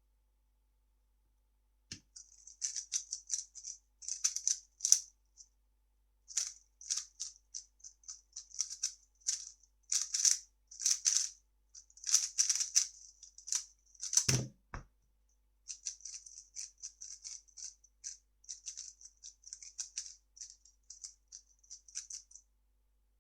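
A 3x3 speedcube being turned at speed: fast runs of plastic clicking and rattling layer turns for about twelve seconds, ended by a dull thump, then another lighter run of turning.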